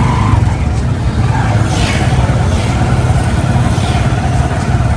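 Car engine and road noise while driving, a steady low rumble.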